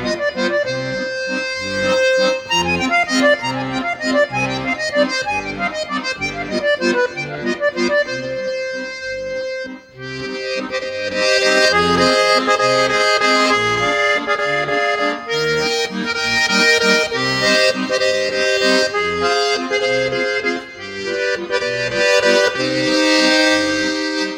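Bayan (Russian button accordion) playing a waltz. Quick running passages go over bass-and-chord accompaniment. After a brief dip about ten seconds in, it moves into louder, fuller held chords.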